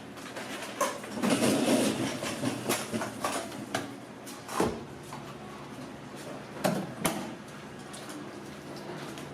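Kitchen clatter: scattered knocks and clanks of pans and utensils over a steady background hum, busiest about one to two seconds in.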